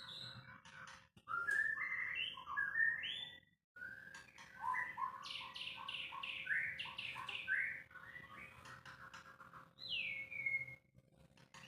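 White-rumped shama singing: a varied run of whistled and chirped phrases, with a quick series of short down-slurred notes in the middle and one clear down-slurred whistle near the end.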